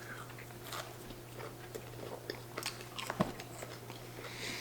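Close-up chewing and biting of breaded chicken nuggets: soft, scattered mouth clicks and small crunches, with one sharper click a little after three seconds.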